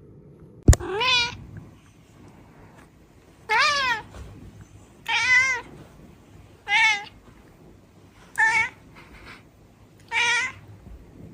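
Cat meowing six times, one call every second and a half or so, each a short pitched meow. A sharp click comes just before the first meow.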